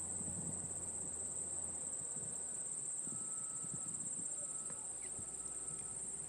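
Crickets trilling in a steady, high-pitched chorus that does not let up.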